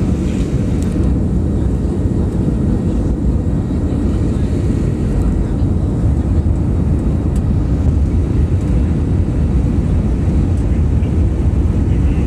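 Steady airliner cabin noise in flight, engines and rushing air heard through the fuselage from inside the passenger cabin. The sound is mostly deep, with a faint steady hum above it.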